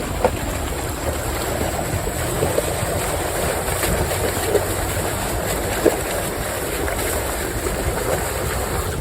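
Floodwater rushing steadily down the trail, with an off-road vehicle's engine running low underneath and a few small knocks or splashes.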